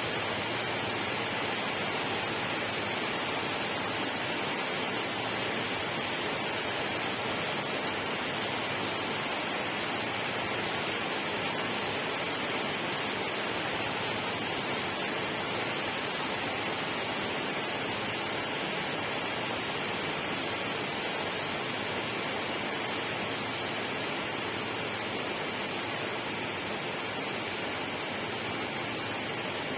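Steady, unbroken rushing of water, even and without separate drops or splashes, as in a natural water soundscape for sleep.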